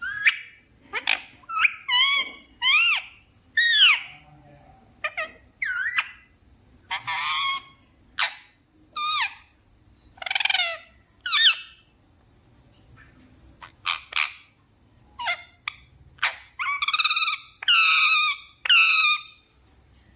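Pet parrot calling in a series of short, loud squawks and whistles, some sliding up in pitch and some down, with gaps between them. Near the end comes a quicker run of harsher squawks.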